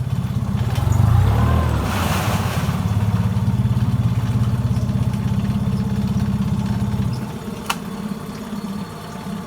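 Nissan 20 hp four-stroke outboard motor running in gear, the propeller turning under load, a little louder for a moment about a second in. About seven seconds in the engine sound drops sharply, and a single sharp click follows.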